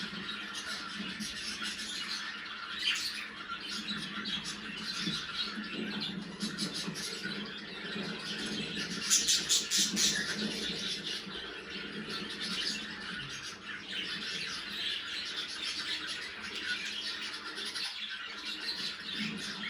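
Budgerigars chattering continuously, a dense warble of chirps and squawks, with a louder burst of rapid chirps about nine seconds in.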